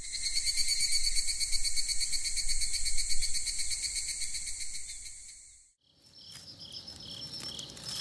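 Crickets chirring in a dense, fast-pulsing chorus that fades out a little over five seconds in. After a brief gap, softer short high chirps repeat every half second or so, with faint clicks.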